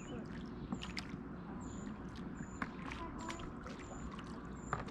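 Inflatable rowboat's plastic oars dipping and pulling through pool water: splashing and trickling, with a few sharper splashes as the blades strike the water. A short high chirp repeats about once a second.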